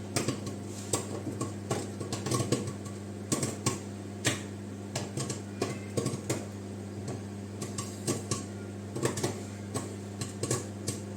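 Microwave popcorn kernels popping inside a paper bag in a running microwave oven: irregular sharp pops, often several a second, over the oven's steady hum. The pops still come close together, so the popcorn is not yet done.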